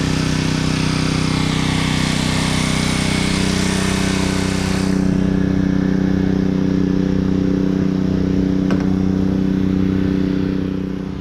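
Gas pressure washer running steadily, with the hiss of the water spray that cuts off abruptly about halfway through as the spray stops. The engine keeps running, then fades near the end.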